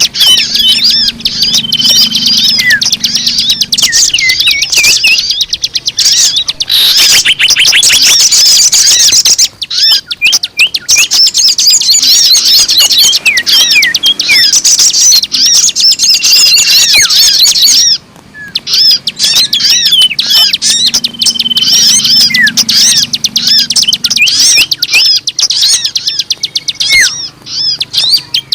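A dense chorus of small birds chirping and twittering rapidly and continuously, with short whistled notes among them. It is a recorded bird-lure track (pemikat) meant to draw in birds of many kinds.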